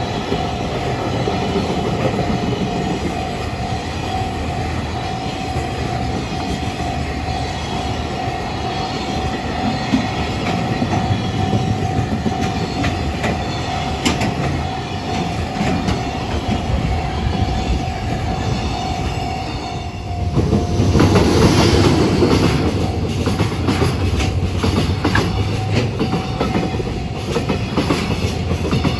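Freight train of container and tank wagons passing at speed over a level crossing: a steady rumble of wheels on rail with clickety-clack over rail joints and a thin steady tone above it. About twenty seconds in it changes to a closer, louder pass with sharper wheel clatter.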